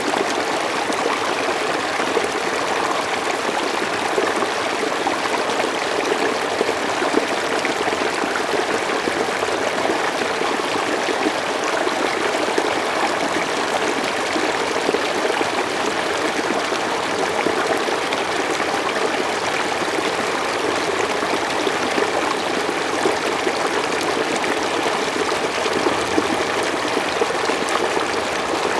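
A mountain stream flowing steadily over rocks, a continuous even rush of water with small splashes throughout.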